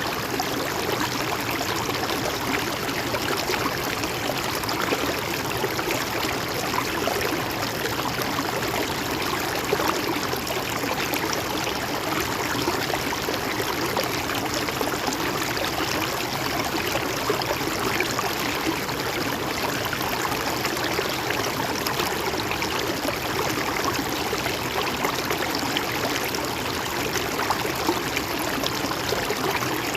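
A shallow river or stream flowing and babbling over rocks, a steady rush of water with small splashes throughout.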